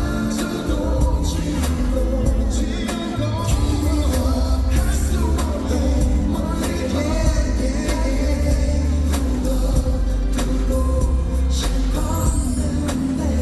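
A pop song played over a concert sound system: singing over heavy bass and a steady drum beat.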